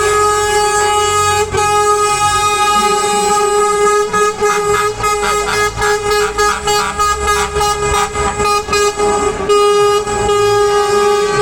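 Truck air horn sounding, one steady held note broken by a run of rapid short blasts in the middle, over the low rumble of truck engines.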